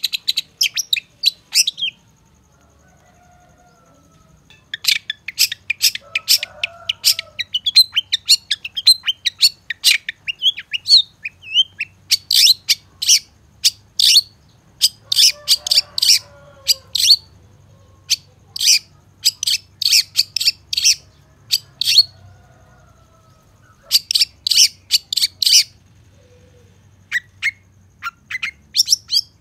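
Long-tailed shrike singing in fast runs of sharp, high chirps, with a pause of about three seconds near the start and another of about two seconds past the middle.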